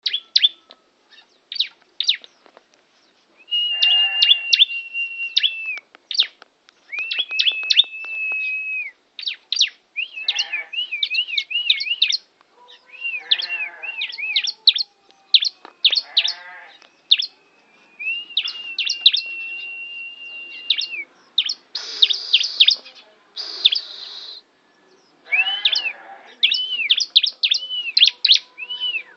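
Bar-winged prinia (ciblek) singing busily. It mixes sharp repeated chips with long, level whistled notes of two to three seconds and quick trilled phrases. A little past two-thirds of the way through come two short, harsh raspy notes.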